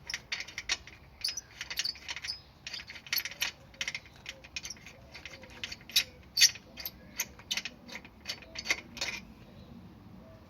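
Hand-tool work on motorcycle engine-mount bolts: a run of sharp metallic clicks and clinks, some in quick clusters, as bolts and washers are handled and worked with a spanner or ratchet. It stops about nine seconds in.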